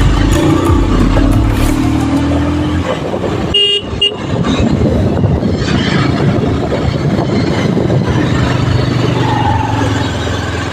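Steady road noise of a motorcycle ride, with a short vehicle horn toot about three and a half seconds in.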